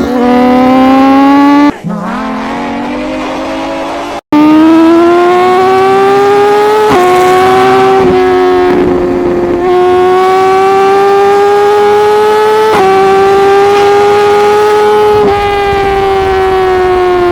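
Loud inline-four superbike engine at high revs through an aftermarket exhaust, the pitch climbing under hard acceleration and dipping briefly at each upshift, about four times. Abrupt cuts about two and four seconds in.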